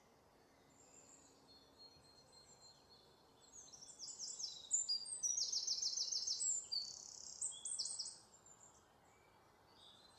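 Birds chirping and singing in quick runs of high, repeated notes. They are faint at first, louder for a few seconds in the middle, then fade.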